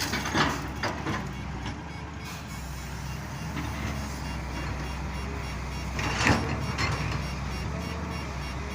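Excavator's diesel engine running steadily under load, with sharp knocks and clatter of rock being dumped about half a second in and again around six seconds.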